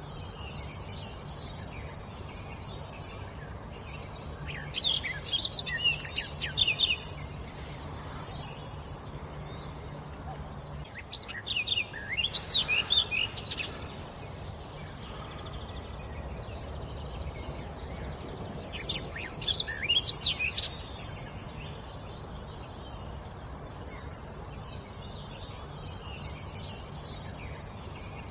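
A songbird singing three short bursts of quick, high, sweeping notes, each lasting two to three seconds, over a steady background hiss.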